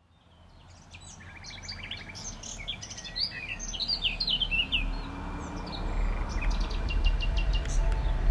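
Several songbirds chirping and whistling, fading in from silence, with a quick trill about a second in. Steady tones of soft music start to come in near the end.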